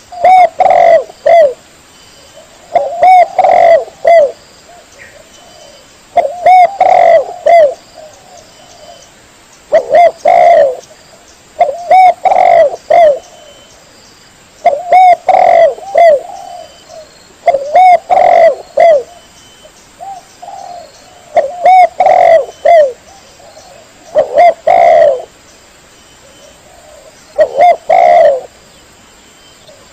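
Spotted dove (tekukur) cooing: a short phrase of three or four coos, repeated about every three seconds.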